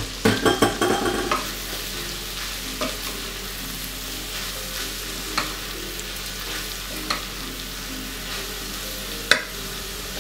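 Freshly added sliced leeks sizzling in melted butter in a stainless steel pot while a wooden spoon stirs them. A quick cluster of knocks comes right at the start, then a few single sharp clicks of the spoon against the pot, the loudest near the end.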